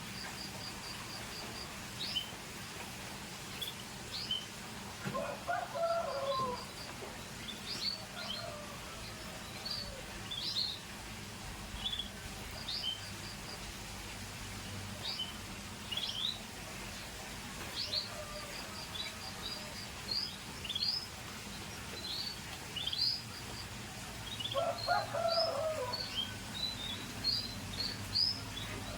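Scotch Fancy canaries giving short, scattered chirps and brief trills rather than a continuous song. Twice, at about five seconds in and again near the end, a lower-pitched call sounds for a second or two.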